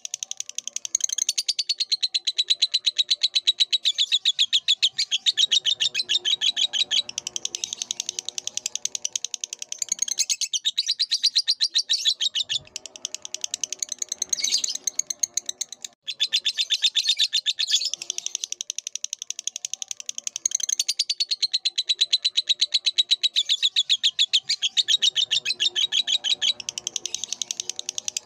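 Lovebird singing: a long, very fast, high-pitched chattering twitter that runs almost without a break, pausing briefly a few times.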